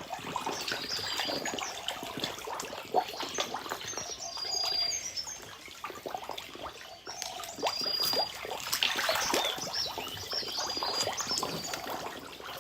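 Water splashing and trickling in an irregular run of small splashes, with short high bird chirps a few times.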